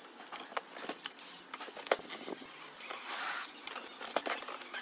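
Scattered small clicks and rattles of hand tools and parts being worked as the circuit board is taken out of an inverter welding machine, with a brief scraping sound about three seconds in.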